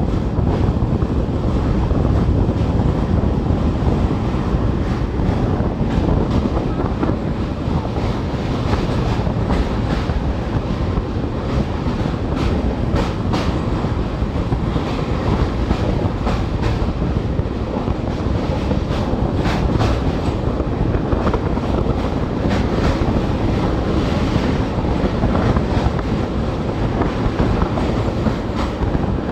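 Express passenger train running over a long railway bridge, heard from on board: a steady, loud rumble of the coach wheels on the rails with rapid, irregular clicking from the track.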